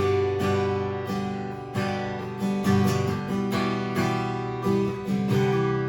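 Acoustic guitar strumming chords in a steady rhythm, the instrumental break of a live worship song, with no singing.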